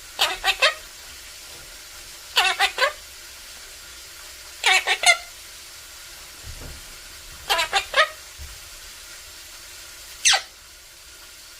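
Quaker parrot (monk parakeet) voicing short, rapid three- or four-syllable phrases about every two to three seconds, five times, ending with a single rising call, over a faint steady hiss.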